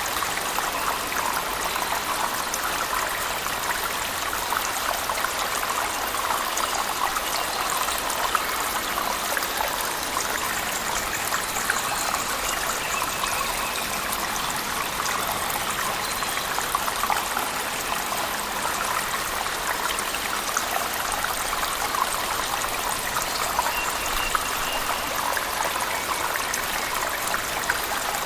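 Steady rush of falling water with heavy rain, a waterfall splashing and trickling inside a cave, with a dense hiss of raindrops and no pauses.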